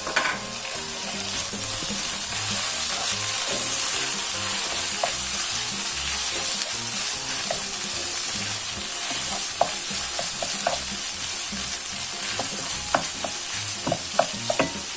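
Ground beef, onions, peppers and chopped tomatoes sizzling steadily in a nonstick frying pan while a wooden spoon stirs them. There are scattered light taps of the spoon against the pan in the last few seconds.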